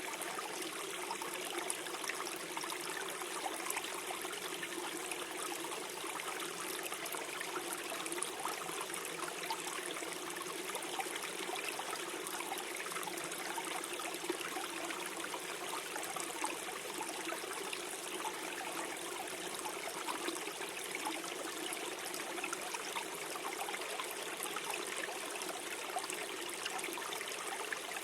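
Small forest stream flowing and gurgling over stones, a steady trickling rush of water.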